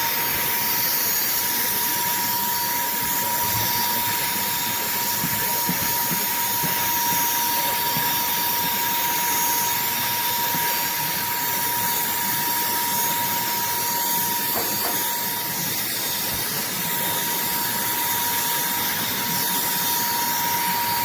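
Handheld vacuum cleaner running steadily, its motor holding one steady whine over a constant rush of air.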